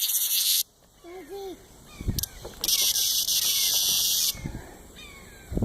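A cicada buzzing in two bursts of loud, high hissing buzz: one cuts off suddenly just under a second in, and a longer one starts about two and a half seconds in and lasts nearly two seconds. A brief low wavering call is heard between them.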